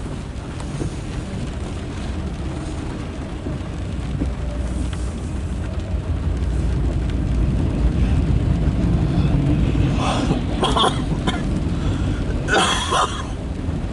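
CSX loaded autorack freight train approaching on the tracks, a low rumble that builds about halfway through. Several short, sharp noisy bursts come near the end.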